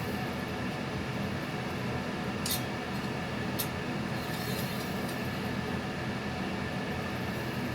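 Two light metallic clicks from bike tools, about two and a half and three and a half seconds in, over a steady mechanical hum.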